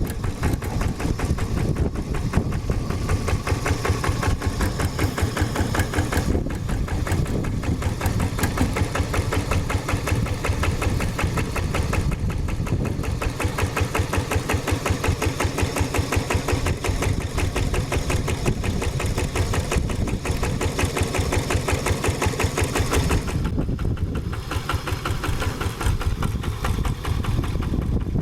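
Single-cylinder diesel engine of a two-wheel hand tractor running under load, a rapid, even knocking beat that eases off briefly a few times.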